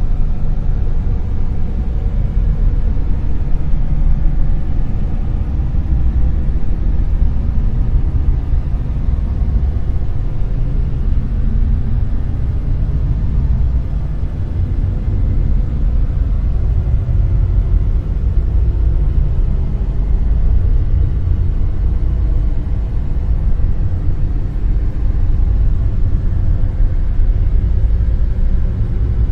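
Dark noise: a steady, deep rumbling hiss weighted heavily toward the bass, with gentle slow swells and dips in level.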